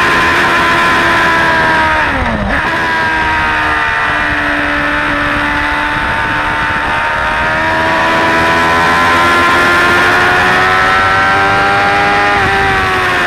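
Suzuki GSX-R600 K4's inline-four engine at track speed, with wind rush over the bike. The revs fall, drop steeply with a downshift about two seconds in and are held low through a corner. They then climb steadily under acceleration, with a quick dip at an upshift near the end.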